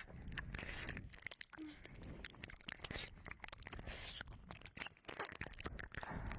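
Ear licking and mouth sounds close on a 3Dio binaural microphone's ear: dense, irregular wet clicks and smacks of tongue and lips on the silicone ear, with short hissy swishes between them.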